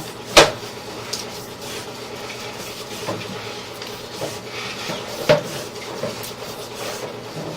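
Sharp metallic clanks of a sewer inspection camera's push cable and reel being fed out by hand: one loud clank just after the start and another about five seconds in, with lighter knocks between, over a steady faint hiss.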